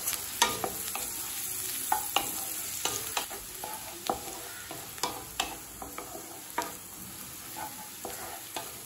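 Chopped onion, garlic and green chilli sizzling in hot oil in a metal kadai on high flame. A spatula stirs them, scraping and tapping against the pan every half second to second.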